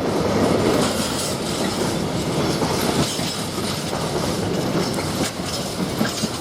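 Empty freight wagons rolling past at steady speed, wheels clattering over the rail joints with a continuous rumbling rattle.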